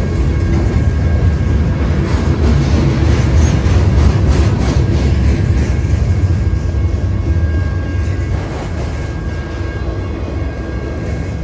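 Freight train's autorack and gondola cars rolling past close by: a heavy, steady rumble of steel wheels on rail. A run of clacks comes about two to five seconds in, with faint steady high-pitched tones over the rumble.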